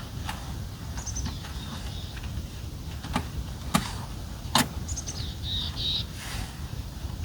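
A few sharp clicks and knocks from the roof top tent's hardware being handled while it is folded up, the two loudest a little after the middle, with a bird chirping in short high calls in the background.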